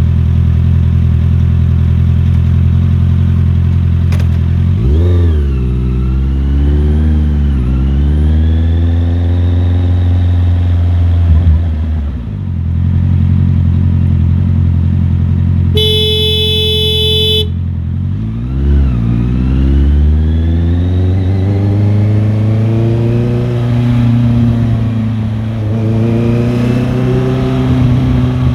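Motorcycle engine running while riding. The revs drop and climb again several times, then rise steadily toward the end. About halfway through, a vehicle horn sounds once for about a second and a half.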